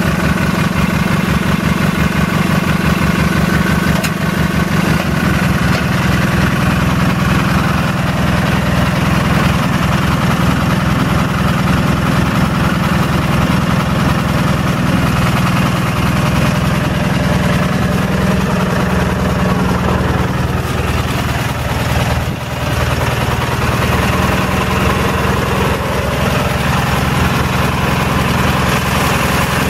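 A Yardman 16.4 garden tractor's opposed-twin 16 hp Briggs & Stratton engine running just after a cold start in below-freezing weather, with its throttle cable frozen. The individual firing pulses stand out for the first few seconds, then it settles into a smoother, steady run, with a brief dip in level a little over twenty seconds in.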